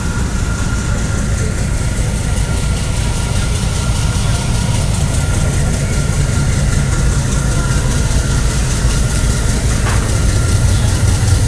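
Passenger ferry's engines idling, a steady heavy low rumble that grows slightly louder near the end, with a thin steady whine above it. A short rising chirp sounds about ten seconds in.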